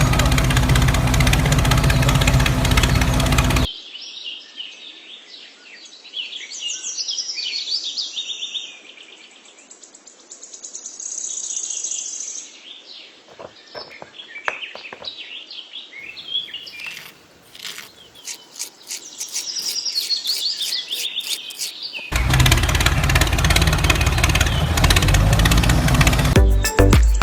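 Birds chirping and trilling, many short high calls over quiet background. They are framed by a loud, steady, machine-like noise that cuts off a few seconds in and comes back suddenly near the end.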